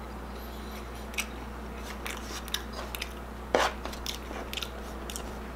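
A person chewing crunchy food with the mouth closed, close to the microphone: scattered sharp crunches, the loudest about three and a half seconds in.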